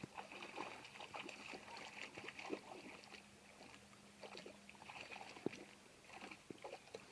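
Faint rain with scattered, irregular drips and taps.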